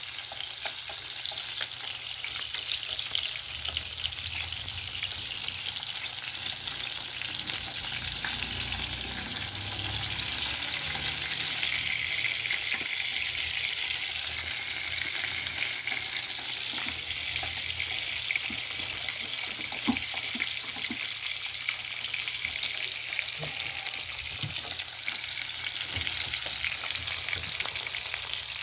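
Egg-battered pollack fillets frying in oil in a wide pan: a steady sizzle with scattered small crackles and pops.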